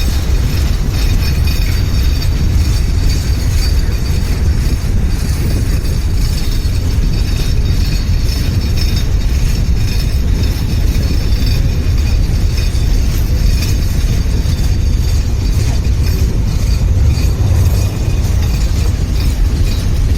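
Train running over a rail bridge: a steady, loud rumble with a hiss on top that holds without a break.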